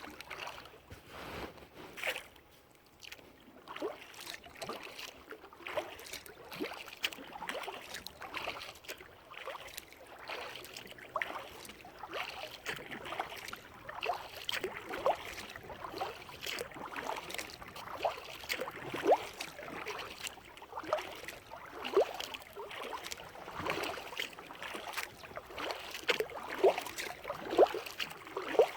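Kayak paddle dipping and pulling through lake water, with small splashes and drips plinking off the blades, a steady uneven run of strokes.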